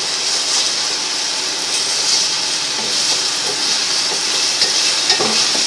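Oil sizzling steadily as sliced tomatoes, onion, garlic and ginger sauté in a stainless-steel pot over raised heat, stirred with a wooden spatula.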